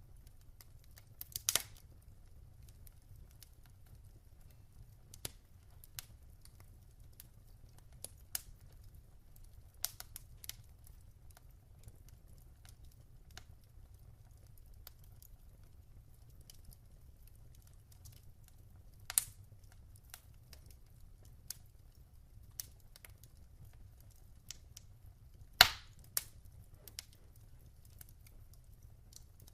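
Wood fire crackling: irregular sharp pops and snaps over a faint low rumble, with louder pops about a second and a half in, near the middle and near the end.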